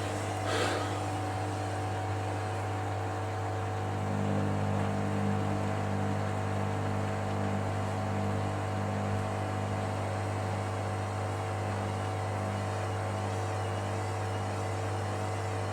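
Hoover Dynamic Next washing machine's drum motor running as it tries to balance a bathmat load to spin, a steady hum with a motor tone coming in about four seconds in. The single bathmat is an unbalanced load, and the machine is making repeated attempts to get up to spin.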